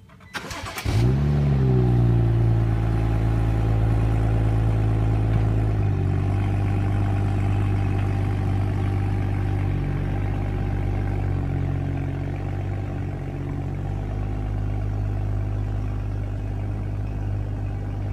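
BMW 335i's turbocharged straight-six being started: a short crank, then the engine catches and flares up about a second in, settles to a fast idle, and drops to a steady lower idle about six seconds in.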